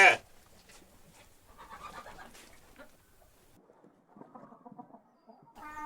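The end of a loud goat bleat right at the start, then faint hen clucking and scattered farmyard bird sounds.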